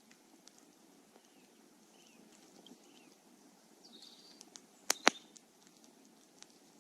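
Wood campfire burning: a low steady hiss with scattered small crackles, and two sharp loud pops close together about five seconds in.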